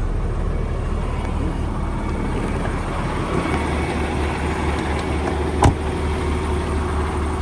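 Semi truck's diesel engine idling steadily, heard from inside the cab; its low hum shifts slightly about three seconds in. A single sharp click comes about five and a half seconds in.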